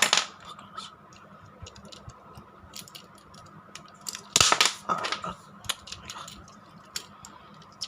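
Small plastic clicks and rattles of a battery-powered toy train engine being handled and fiddled with, with a louder burst of clatter about four and a half seconds in. No motor is heard running: the toy isn't working.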